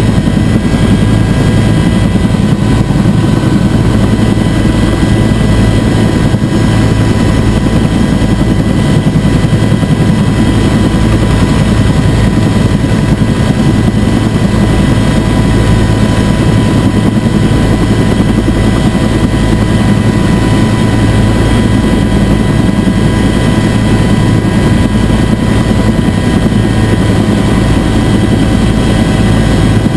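Bell UH-1 Huey helicopter running loud and steady: a dense rotor and engine drone with several steady whining tones above it.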